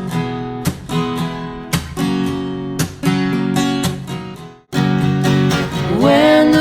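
Song intro: acoustic guitar strumming chords, one strum roughly every second, with a short break just before the five-second mark. Near the end a singing voice comes in over the guitar.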